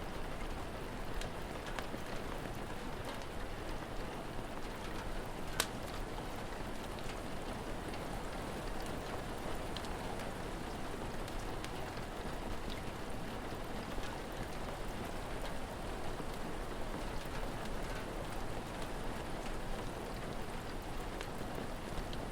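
Steady rain falling, with scattered sharp pops from a crackling fire; one pop about five and a half seconds in stands out.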